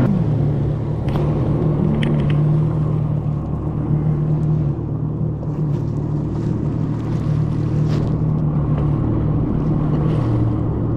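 1800cc jet ski engine running at a steady, high speed, its pitch holding nearly constant, over a rushing noise of wind and water.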